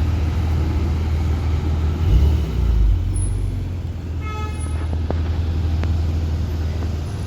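Street traffic with car engines running, a low engine surge about two seconds in, and a short car-horn toot a little after four seconds.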